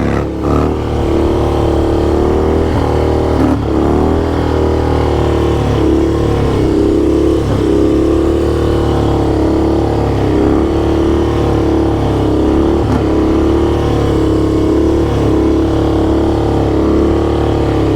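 Motorcycle engine running steadily while riding, its pitch rising and dipping slightly now and then with the throttle.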